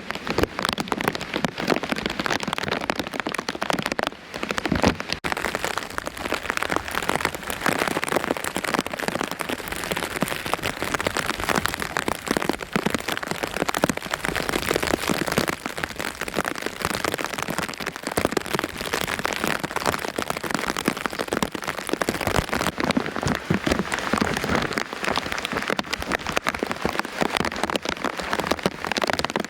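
Heavy rain falling steadily, a dense hiss of countless drops splattering on hard surfaces.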